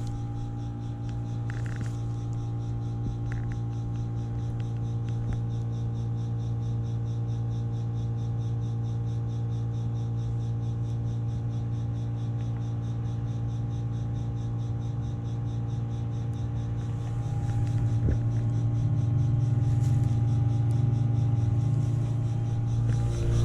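Vintage 1981 three-ton BDP heat pump outdoor unit running with a steady compressor hum and several constant tones. The hum grows somewhat louder about three quarters of the way through.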